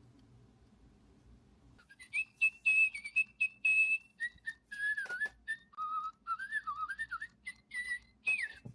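Little Live Pets toy bird chirping through its newly replaced speaker. A run of short, high whistled tweets that glide up and down in pitch starts about two seconds in. The sound shows the replacement speaker works.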